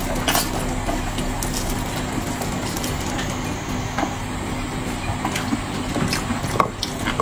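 Chewing and lip-smacking from someone eating braised pork knuckle: scattered short wet clicks and smacks. Under them runs a steady low hum.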